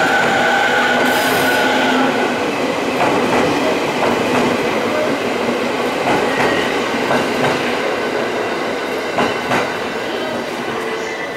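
JR East 209-series electric train pulling out and running past. A steady whine fades in the first two seconds, then the wheels clack over rail joints several times as the last cars go by. The sound dies away as the train leaves.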